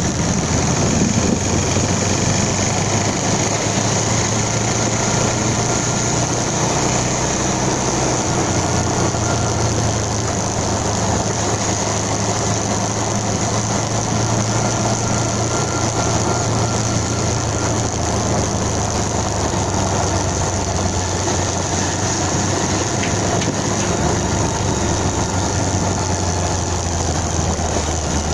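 Motorcycle engine running steadily at low, even revs, a continuous low hum that barely changes.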